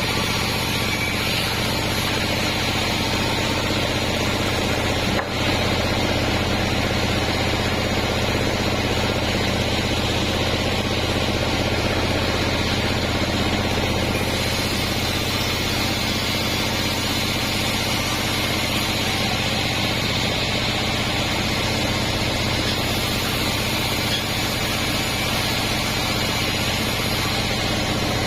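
Band sawmill running with a loud, steady mechanical drone and hum, with one brief dip about five seconds in.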